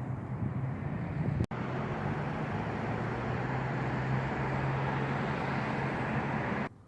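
Steady vehicle noise with a low engine hum, briefly broken about one and a half seconds in and cut off abruptly near the end.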